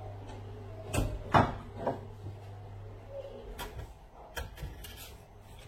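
Hand tools knocking and clanking against metal in a few separate sharp knocks, over a low steady hum that stops about halfway through.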